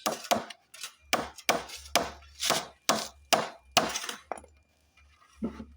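Hammer striking timber formwork boards: about ten sharp blows over four seconds, then they stop.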